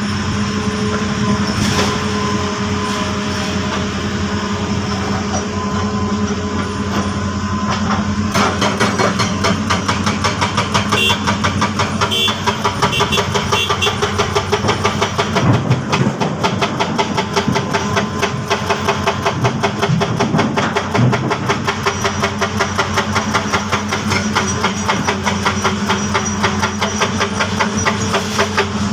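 Heavy diesel machinery running steadily with a deep hum. About eight seconds in, a fast, even knocking of about five beats a second joins it and carries on.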